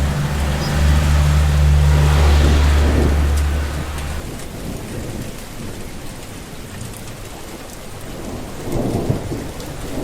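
Rain falling steadily, with a deep rumble of thunder over the first four seconds that then dies away, leaving the rain alone.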